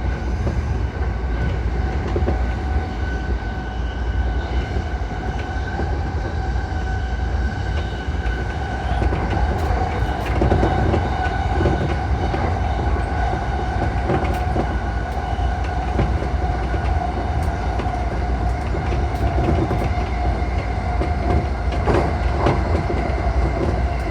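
JR East E235-1000 series electric train running at speed, heard from on board: a steady low rumble with a held whine and scattered clicks of the wheels over rail joints.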